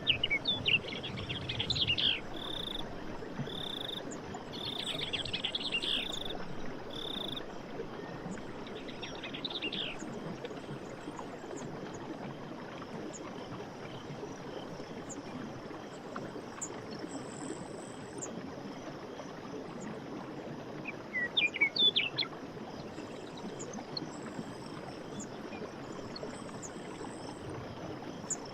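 Forest ambience: a steady rushing background with birds chirping through the first ten seconds and again in a short burst about three-quarters of the way through, over faint high, repeated pulsed calls.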